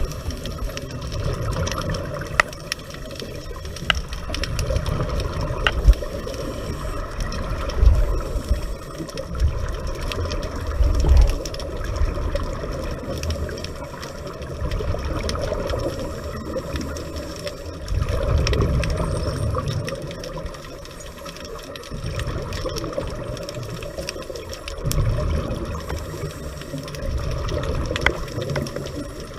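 Underwater sound of a scuba diver breathing through a regulator: exhaled bubbles rumble past in bursts every few seconds over a steady hiss, with scattered faint clicks.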